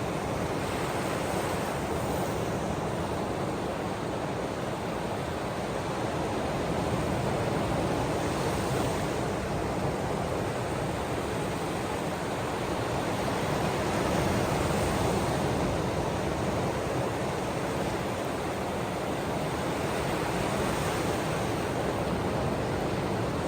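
Ocean waves washing on the shore, a steady wash of noise that swells gently every several seconds.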